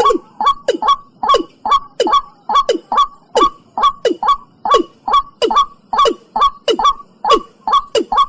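Watercock giving its loud, rapid series of short 'kok' calls, each note falling in pitch, about two to three a second.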